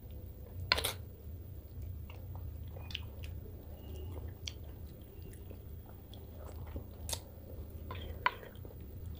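Close-miked eating sounds: a person chewing and smacking on rohu fish curry and rice eaten by hand, with wet mouth clicks and squishing of rice and gravy between the fingers. Three sharper smacks stand out, about a second in, near seven seconds and just past eight seconds, over a steady low hum.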